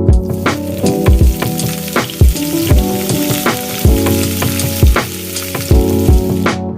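Food sizzling as it fries in a pan, an even hiss over background music with a steady beat. The sizzle cuts off suddenly near the end, leaving the music.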